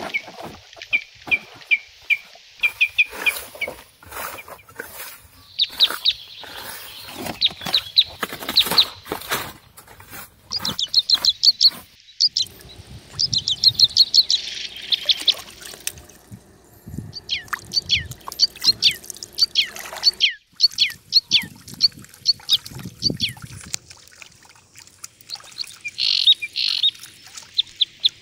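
Birds chirping in quick runs of short, repeated calls, one run after another. Scattered sharp clicks and knocks come in among the calls during the first half.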